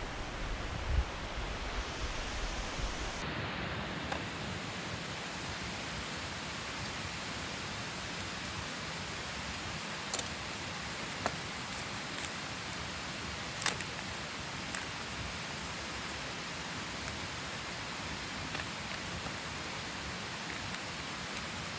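Steady rush of a mountain stream's flowing water, with a thump near the start and a few sharp clicks around the middle.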